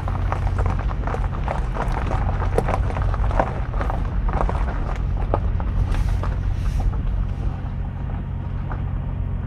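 Car in motion, heard from inside: a steady low engine and road rumble with many small rattles and clicks over it, which grow sparser after about seven seconds.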